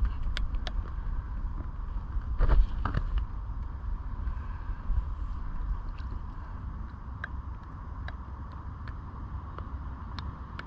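Wind rumbling on the microphone over light water noise, with scattered small clicks and one brief louder rush about two and a half seconds in.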